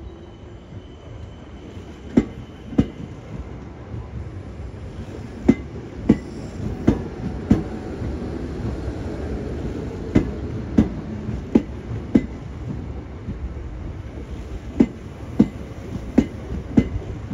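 South Western Railway Class 455 electric multiple unit rolling slowly past at a steady pace, its wheels clacking over a rail joint. The clacks come in twos, one pair for each bogie, over a low rumble that grows louder.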